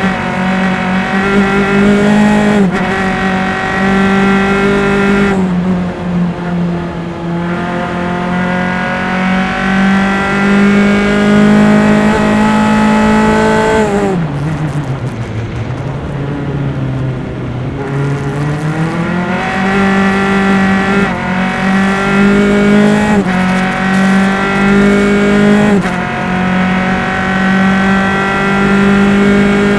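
Single-seater race car engine heard onboard at racing speed. It is held high with quick drops in pitch at the upshifts. About halfway through, the revs fall steeply through downshifts into a slow corner, then climb again with a series of upshifts.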